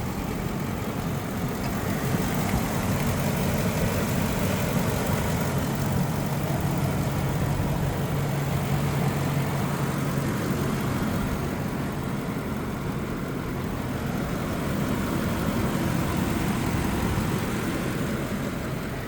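A 2019 Ford E-350's 6.2-litre flex-fuel V8 idling steadily, with a steady low hum that grows a little stronger for a few seconds in the middle.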